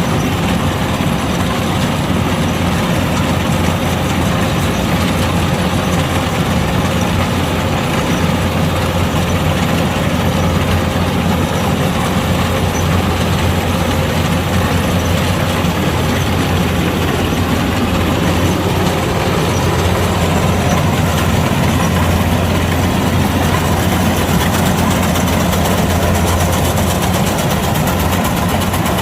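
Kubota DC-105X combine harvester running steadily with its diesel engine and machinery droning at an even pitch.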